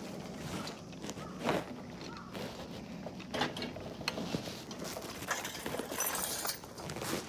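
Irregular footsteps with scattered knocks and clicks, the loudest about one and a half seconds and three and a half seconds in; no engine is running.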